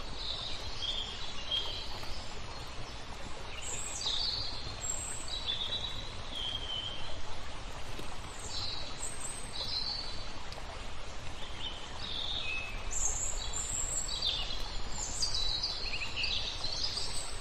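Small birds chirping in short, quick repeated phrases, some notes sliding down in pitch, over a steady low rumble of background noise.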